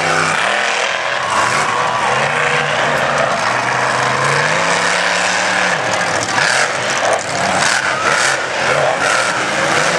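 Monster truck engine revving hard and loud, its pitch climbing and dropping again and again.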